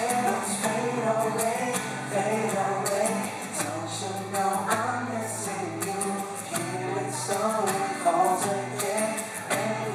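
Male voices singing a slow acoustic pop ballad over acoustic guitar, performed live.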